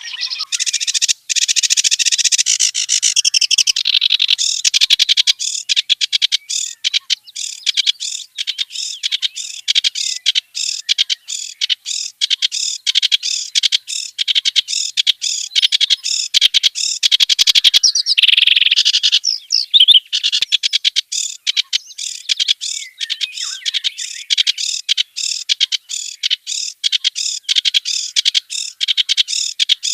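Clamorous reed warbler (kerak basi) singing: a continuous run of rapid, quickly repeated notes in changing phrases, with a brief break about a second in and a different, denser phrase around two-thirds of the way through.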